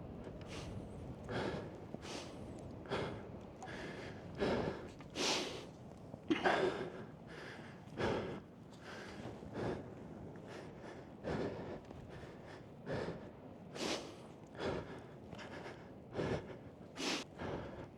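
A man breathing hard, with about a dozen loud gasping breaths, roughly one every second and a half, from the strain of pushing and wrestling a heavy motorcycle stuck in soft sand.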